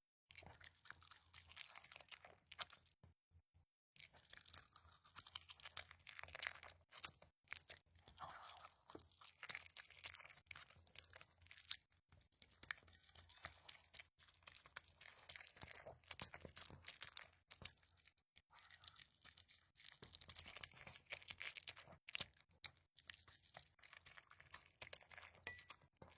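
Close-up chewing of crunchy food: a quiet, irregular run of small crunches and clicks, pausing briefly now and then.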